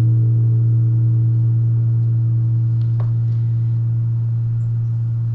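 A singing bowl ringing on one deep, steady tone, slowly fading, with a faint tap about three seconds in.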